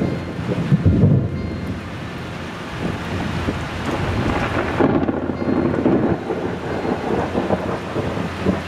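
Thunder rumbling over steady rain during a thunderstorm, with the loudest roll of thunder about a second in.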